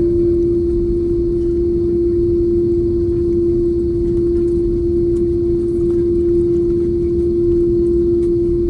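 Steady airliner cabin noise: a low rumble from the jet engines and airflow with a strong, constant hum running through it.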